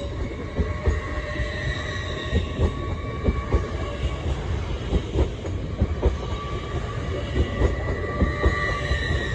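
LNER Class 801 Azuma train running along the track: repeated wheel clicks over the rail joints under a steady high whine.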